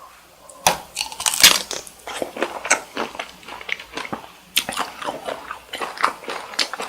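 Close-miked eating of cold cooked cocktail shrimp: a bite about a second in, then moist, crackly chewing with many irregular small clicks.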